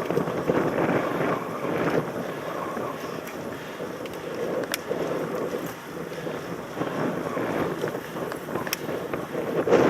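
Wind buffeting a helmet camera's microphone while riding a mountain bike, with the steady rushing noise of the ride and two sharp clicks, one about halfway through and one near the end.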